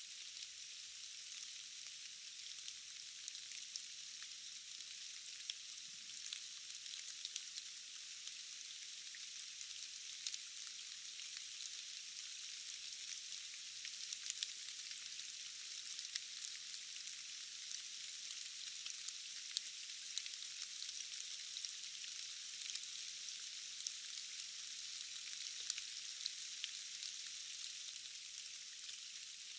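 Steady rain falling on forest foliage: an even hiss with many small scattered drop ticks, with no low rumble.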